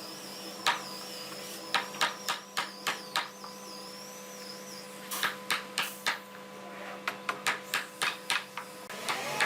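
Repeated sharp taps or knocks of woodworking hand tools, a few a second in irregular runs, over a steady electrical hum. A thin, wavering high whine sounds through roughly the first half.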